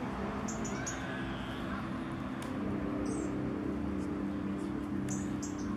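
A few brief, high-pitched bird chirps over a steady low background hum.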